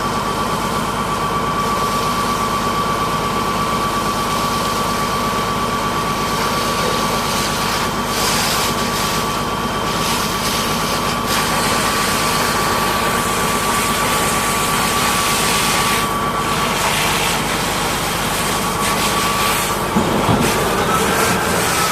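High-pressure washer running steadily with a constant high whine from its motor and pump. Hissing bursts of spray come about a third and three quarters of the way through.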